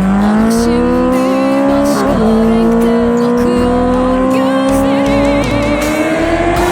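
Honda CBR650R inline-four with an Akrapovic exhaust accelerating hard. Its pitch climbs steadily and drops sharply at two upshifts, about two seconds in and again near the five-and-a-half-second mark.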